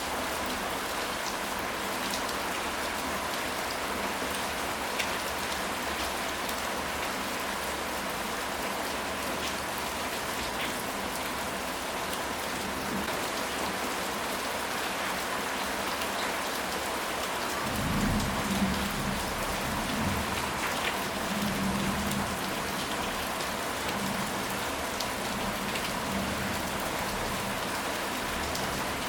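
Steady rain falling, an even hiss with fine drop ticks. About two-thirds of the way in, a low roll of thunder rumbles for several seconds, then fades.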